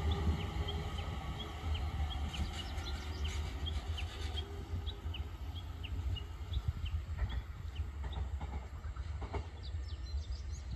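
Steady low rumble inside an Abukuma Express AB900 series train car, with a rapid run of short high chirps, about three a second, through the first half and a few light clicks later on.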